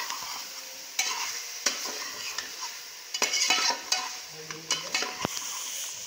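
Chicken in a spice masala sizzling as it is fried and stirred in a pan, the utensil scraping through it in irregular strokes; this is the bhuna stage, frying the masala and meat together.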